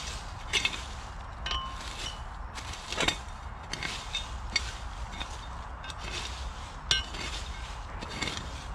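Metal shovel digging into ground: irregular chops and scrapes, several with a metallic clink as the blade strikes.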